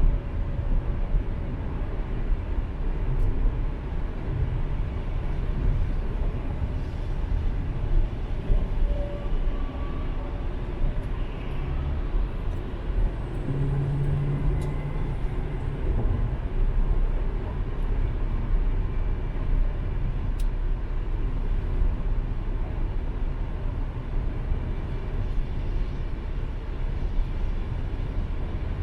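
Steady road and tyre noise with engine drone inside a car's cabin while cruising at highway speed.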